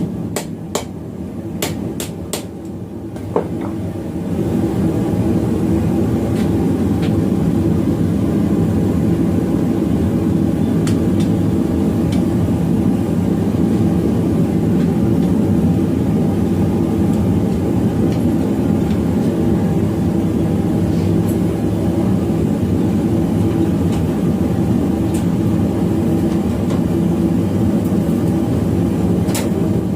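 A handful of hammer blows on steel in the first few seconds, then a loud, steady rumbling roar takes over from about four seconds in, with a few faint clicks.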